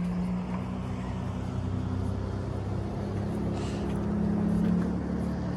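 Supercar engine idling steadily, growing a little louder about four seconds in.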